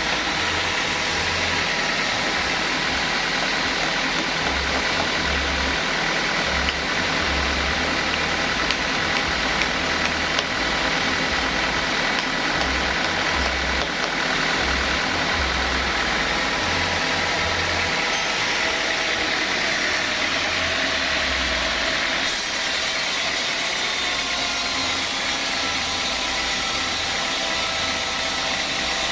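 Sawmill saw machinery running steadily on teak, a continuous loud mechanical noise with a steady whine of several tones. The sound changes abruptly about three quarters of the way through.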